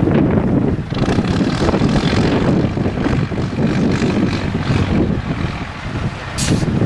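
Diesel engine of a 4x4 IFA trial truck running loudly, its level easing off briefly about five to six seconds in. A short hiss comes near the end.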